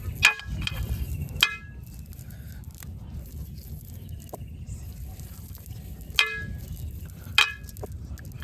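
Four sharp metallic clangs, each with a brief ring, coming in two pairs a little over a second apart, over a low steady rumble.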